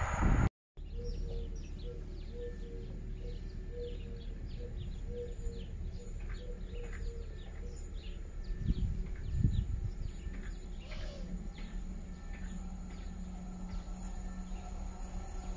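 Small birds chirping and calling, with a run of short evenly spaced notes in the first half. Underneath is a steady low rumble, with two dull thumps a little past the middle and a faint steady hum joining in the second half.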